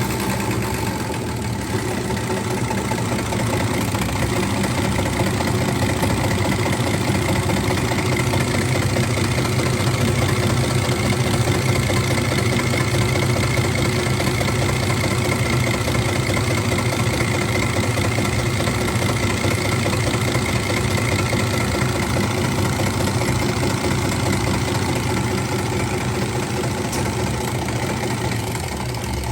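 An engine running steadily at idle, with an even tone throughout.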